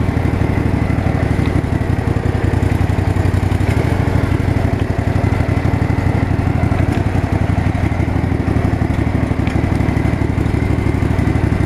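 Riding lawn mower's twin-cylinder engine running steadily while the mower is driven along in high gear.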